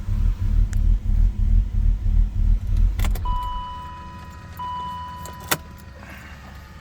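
BMW E39 528i's straight-six idling roughly with an uneven low pulsing, then switched off with a click about three seconds in. A steady high warning tone then sounds for about two seconds, broken once, and ends with a sharp click.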